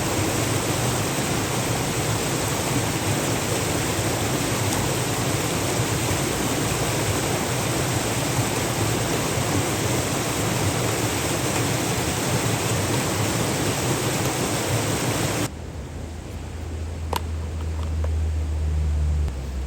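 Steady rushing noise that cuts off abruptly about three-quarters of the way through, leaving a low hum with a single sharp click.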